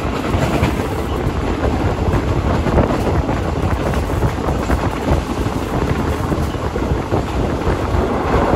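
Loud, steady wind buffeting the microphone over the rumble of a moving third-class passenger train carriage.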